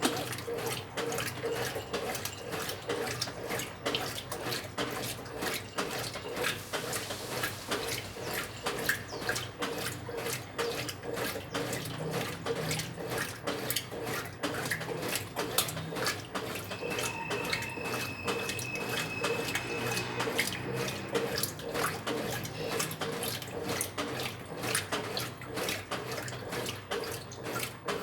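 Water running and splashing inside a Brastemp 9 kg washing machine's tub, steady throughout, over a constant low hum from the machine.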